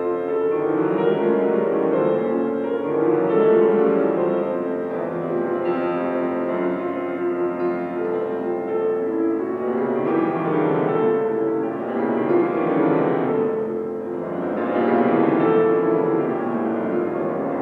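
Solo piano playing classical music: dense runs of notes that swell and fade in waves every two to three seconds.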